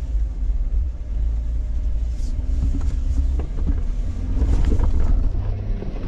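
A 2012 Jeep Wrangler JK's 3.6-litre V6 running at low revs while the Jeep sits stuck in mud, with a heavy low rumble. A scatter of small clicks and knocks comes in about halfway through.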